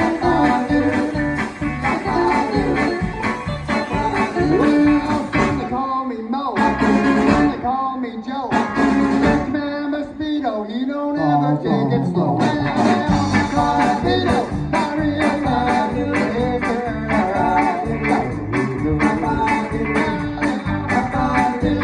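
Rock 'n' roll band playing with a singer over bass and drums. The bass and drums drop out for several seconds in the middle, then the full band comes back in.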